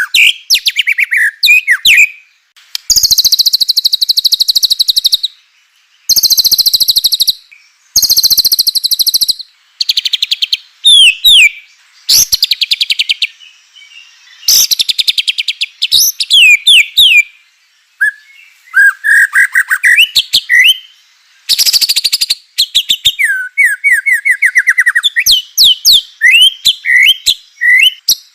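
White-rumped shama (murai batu) singing loudly: a string of phrases a second or two long with short gaps between them. Fast, high, buzzy rattling trills alternate with clear whistled notes that sweep up and down.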